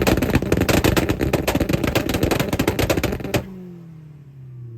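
Car exhaust popping and crackling in a fast, machine-gun-like string of cracks ("shots fired"), which onlookers take for some kind of misfire. The string stops abruptly a little over three seconds in, and the engine's pitch then falls away as it settles.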